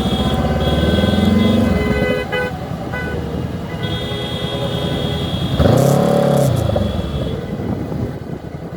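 Motorcycle engine running in traffic, climbing in pitch as it accelerates for the first couple of seconds, then running steadier. About six seconds in a louder engine sound rises and falls in pitch as another vehicle passes close by.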